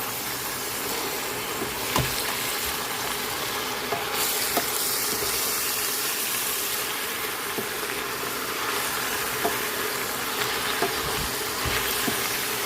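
Chopped collard greens and ham frying in hot grease in a pot, a steady sizzle, as they are stirred with a utensil that knocks against the pot a few times.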